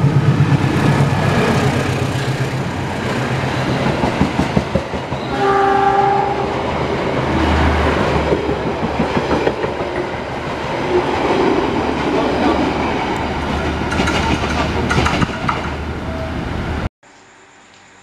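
Passenger train passing close on the adjacent track, its wheels clattering over the rail joints with a steady rumble. A single train horn blast sounds about five seconds in, lasting about a second and a half. The sound cuts off suddenly near the end to a faint hiss.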